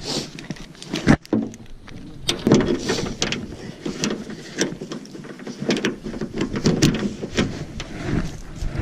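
A run of irregular knocks and clanks, the sharpest about a second in.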